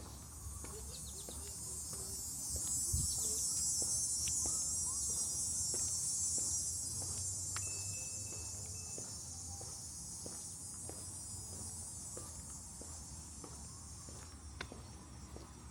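A high, continuous insect buzz that swells about three seconds in and then slowly fades. Faint taps from footsteps on a wooden boardwalk and a short high whistle near the middle sit under it.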